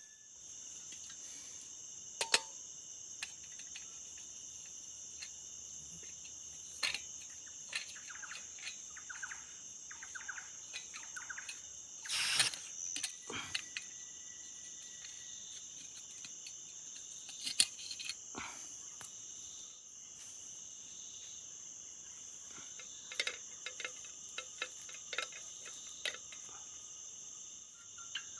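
Insects chirring in a steady, continuous high drone, with scattered sharp clicks and knocks over it, the loudest about halfway through.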